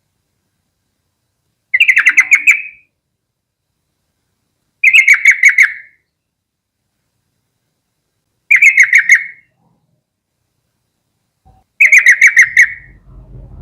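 Yellow-vented bulbul singing: four short phrases of rapid, liquid notes, each about a second long, spaced a few seconds apart.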